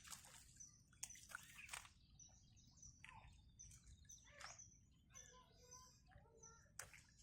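Faint birdsong: short, high chirps repeated every second or so, with a few soft clicks.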